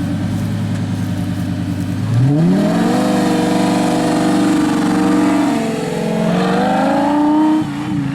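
Lamborghini Gallardo Spyder's V10 engine idling, then revved about two seconds in and held at higher revs, easing off briefly and rising a second time before dropping back near the end.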